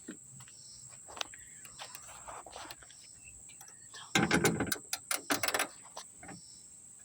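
Small clicks and metal rattling from hands-on work on a car trunk latch and its parts, with a louder burst of clatter about four seconds in and another shortly after.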